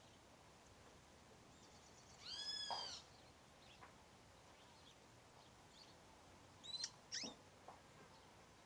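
Birds calling: one drawn-out call that rises and falls in pitch about two seconds in, then two short, sharp sweeping calls about seven seconds in.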